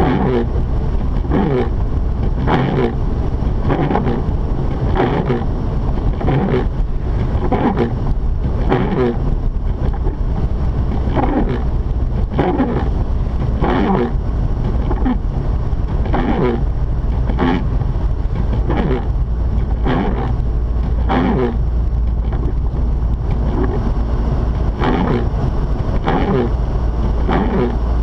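Mazda RX-8 driving on a snowy road, heard from inside the car: a steady low rumble of engine and road noise, with short noises recurring irregularly about once a second.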